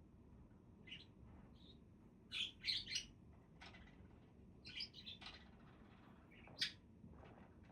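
Budgerigars chirping in short, scattered high chirps: quick clusters a few seconds in, and one sharp chirp near the end that is the loudest. A faint low hum runs underneath.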